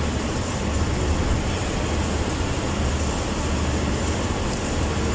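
Steady low rumble of motor vehicle noise, an even hum with no change in pitch or level.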